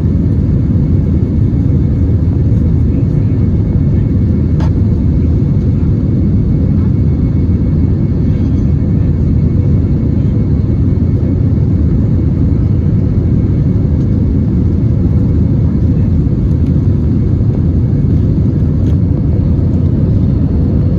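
Steady cabin noise of an Airbus A321 in flight: a constant low rumble of engines and airflow heard from inside the passenger cabin, with a faint steady hum.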